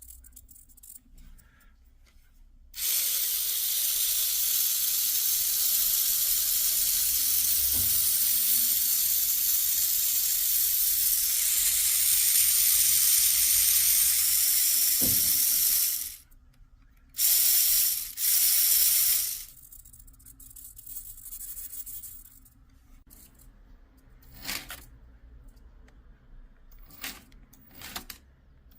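A long, steady hiss of spraying lasting about thirteen seconds, then two short bursts of the same hiss. After that come a few faint small clicks and taps.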